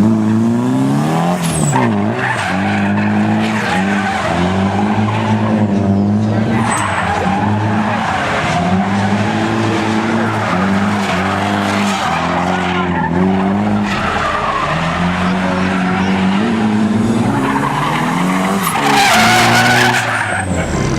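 Car engine revving up and down repeatedly while its tires squeal and skid on the pavement, in the manner of a burnout or slide. The noise grows louder for a moment near the end.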